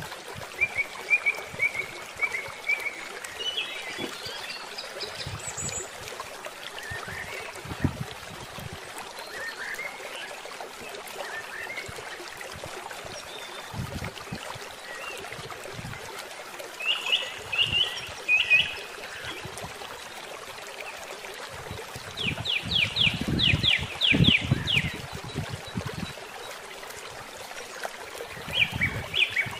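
Birds calling in short runs of rapid, high repeated chirps, the longest and loudest series about three-quarters of the way in. Behind them is a steady hiss of running water.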